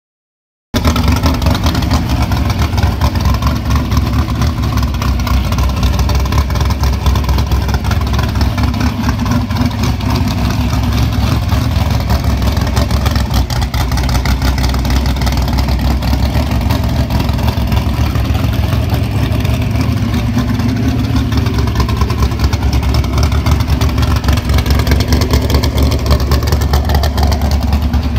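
A 555-cubic-inch methanol-burning big-block Chevy V8 in a Pro Comp drag-race Camaro, running loud and fairly steady with a fast, choppy firing beat. It cuts in suddenly just under a second in, already running.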